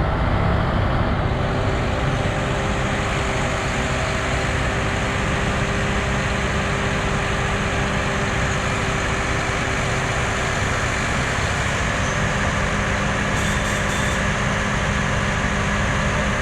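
Heavy diesel machinery engine running steadily, a continuous even drone.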